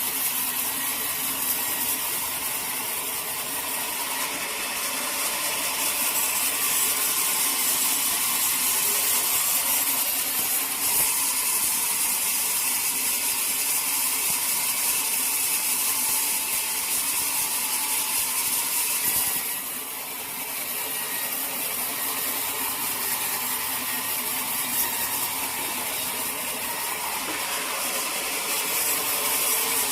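Sawmill saw cutting through a teak log: a steady, hissing, rasping cut with mechanical rattle underneath. It dips briefly about two-thirds of the way through, then carries on.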